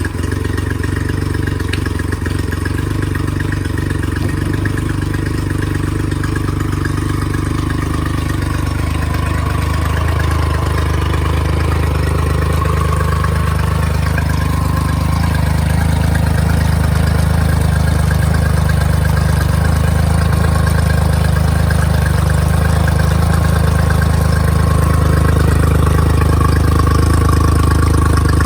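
Honda 50 hp four-stroke outboard motor idling steadily just after starting, growing slightly louder over time.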